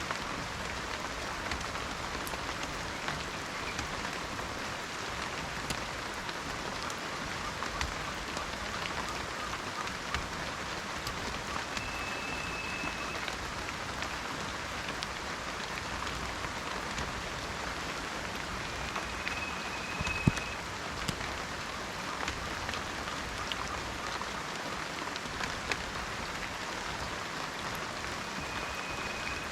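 Steady rain falling, with many individual drops ticking close by and one louder drop about two-thirds of the way through. A short, high, steady whistle sounds three times at intervals over the rain.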